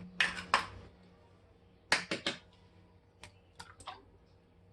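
Sharp, irregular clicks and taps against a mixing bowl while cake batter is made with eggs, coming in three small clusters: near the start, about two seconds in, and lighter ones a little later.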